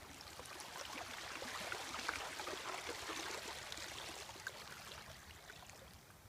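Small lake wave washing onto the shore: a rush of water that swells over the first couple of seconds and then fades away.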